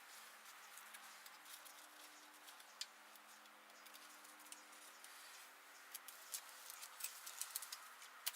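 Near silence with faint, irregular clicks and light taps from hand tools and small metal parts being handled, more of them in the second half, over a quiet steady hum.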